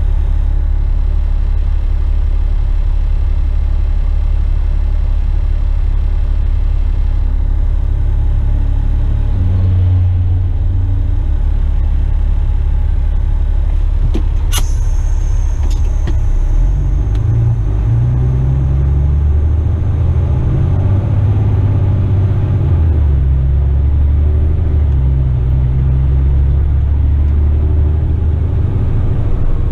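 A fully loaded Western Star tipper truck's diesel engine, heard from inside the cab, running with a steady low drone at first. In the second half it pulls away and works up through the gears, its pitch stepping up and dropping back. A single sharp click comes about halfway through.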